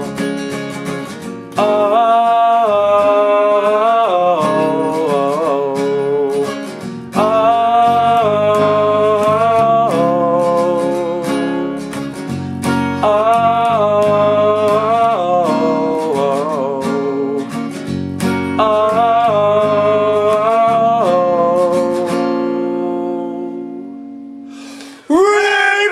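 Acoustic guitar playing under a wordless melody line in four gliding phrases. The music fades out near the end, and a new, louder passage starts just before the end.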